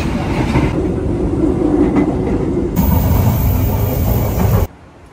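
Passenger train running, heard inside the carriage: a steady low rumble and rattle from the wheels and car body. The sound changes abruptly about three seconds in and drops off sharply near the end.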